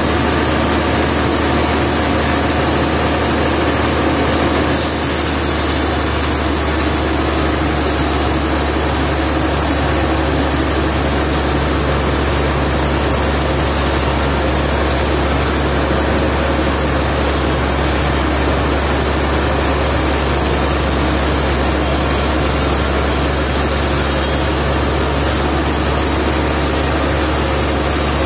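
Sawmill machinery running steadily, its engine giving a constant heavy hum under dense mechanical noise; a higher hiss joins about five seconds in.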